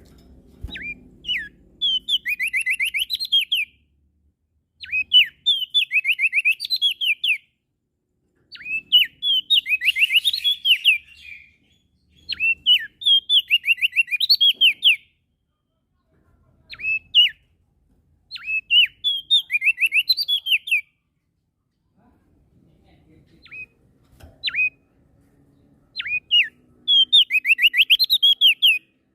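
Crested white-eye (opior jambul, called prenjak daun on Lombok) singing: repeated phrases of fast, high notes, each lasting one to three seconds, with short pauses between them and a few single short notes.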